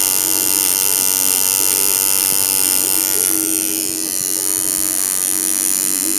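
Tattoo machine fitted with a 9-round shader needle buzzing steadily while shading into skin, dipping slightly in level about four seconds in.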